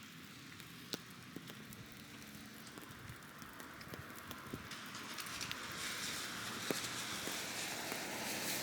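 Light rain pattering, with many small drops ticking, growing louder in the second half.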